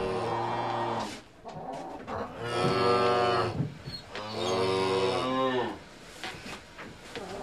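Cattle mooing: a short, low moo at the start, then two long, loud moos about a second apart.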